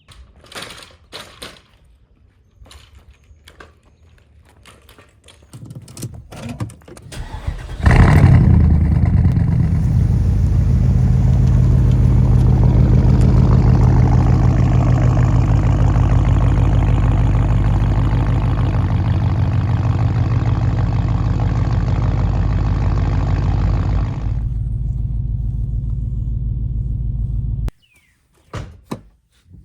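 Porsche engine cranked and starting about eight seconds in, then running steadily. It settles lower about 24 seconds in and is switched off a few seconds later. The engine has a cylinder 3 misfire (code P0303).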